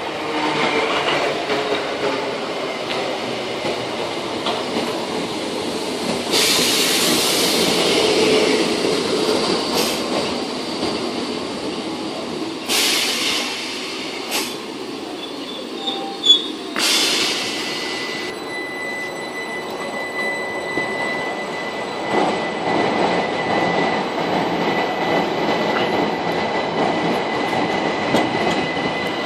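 Southern electric multiple-unit trains, a Class 455 and then Class 377s, running along the platform with the steady rumble of wheels on the rails. Several short bursts of hiss come in the middle, and a steady high whine sounds through the second half.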